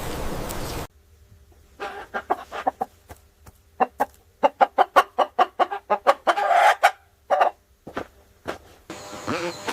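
Chicken clucking: a series of short clucks that quicken into a rapid run in the middle, with one longer squawk about six and a half seconds in. Before it, a steady noisy hum cuts off about a second in.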